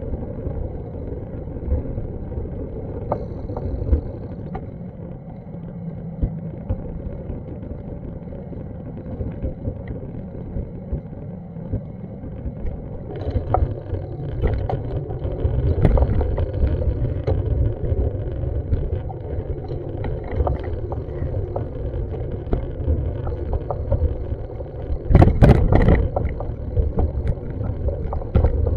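City street ambience picked up by a handheld action camera: a steady low rumble with scattered knocks and clicks, and a louder rush of noise about 25 seconds in.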